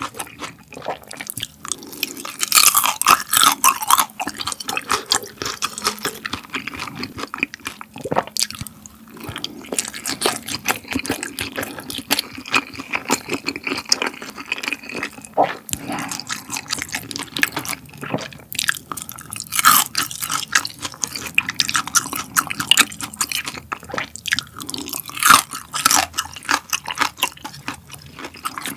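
Close-miked chewing of grilled beef large intestine (daechang): a continuous run of wet, sticky mouth clicks as a chewy, fatty mouthful is worked.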